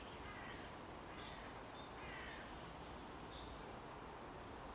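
A few faint, short, harsh bird calls over a low background hiss.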